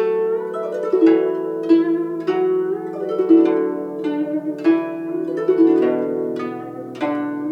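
Solo guzheng playing a slow melody: plucked notes about one to two a second, each ringing on, with some notes bent and wavering in pitch.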